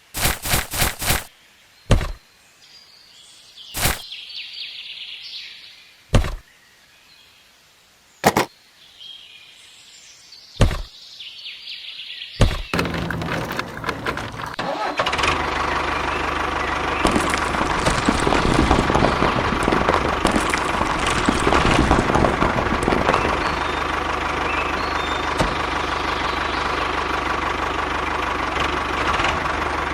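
Sharp knocks a couple of seconds apart. About twelve seconds in, a small motor starts and runs steadily, with a constant whine over a rattling hiss.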